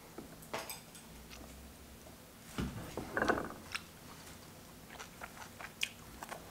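A person chewing food, with small scattered mouth clicks and a louder spell of chewing about three seconds in.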